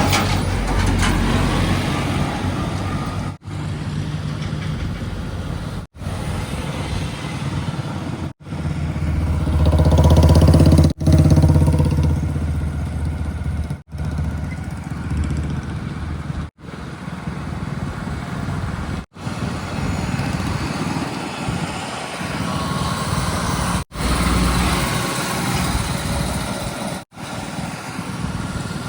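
Heavy diesel engines of earth-moving machinery and tractors running, a steady low hum that swells louder for a couple of seconds near the middle. It stops briefly every few seconds where short clips are joined.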